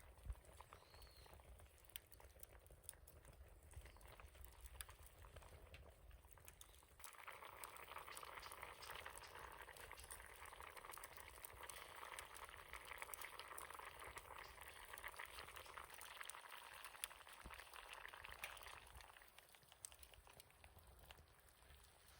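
Food cooking over a wood fire in a fire pit: a faint, fine bubbling and sizzling that grows louder about a third of the way in and dies back near the end.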